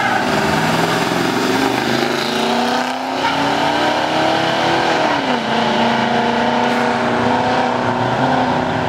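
A Chevrolet C10 pickup and a Plymouth Duster launching side by side down a drag strip, their engines revving hard. The pitch climbs for about five seconds, drops sharply at a shift, then holds steady as the cars pull away.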